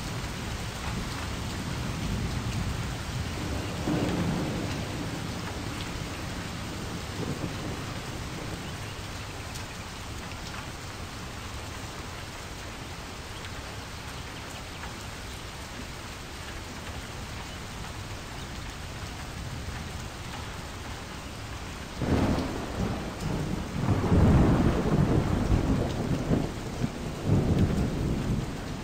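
Steady rain with low rumbles of thunder: a rumble about four seconds in and louder rolling rumbles over the last several seconds.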